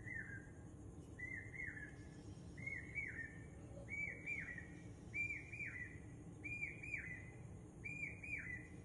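A bird-like chirping call repeated about seven times, roughly once every second and a half, each call a quick pair of high, down-slurred notes, over a faint low hum.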